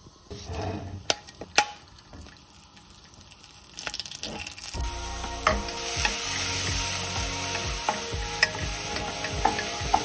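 Chopped onion, ginger and garlic going into a coated nonstick pan with a few knocks. From about five seconds in comes a steady frying sizzle, with a wooden spatula stirring and scraping in regular strokes.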